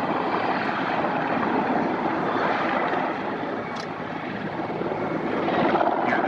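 Sikorsky MH-53 Pave Low III helicopters running, a steady din of rotors and turbine engines, with a short wavering sound near the end.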